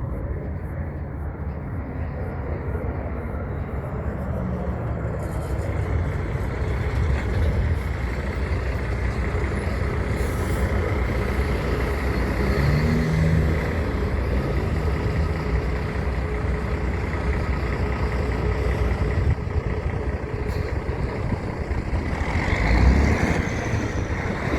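Heavy truck traffic: big diesel truck engines running close by, growing louder about five seconds in and staying loud.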